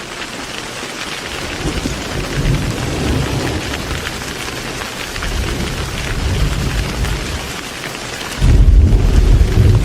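Heavy rain falling steadily, with thunder rumbling low twice, then a loud burst of thunder breaking in near the end.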